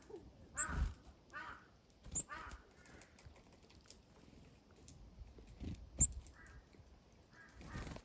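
Crows cawing: a series of short, harsh caws, loudest in the first three seconds and fainter later on, with a few sharp knocks in between.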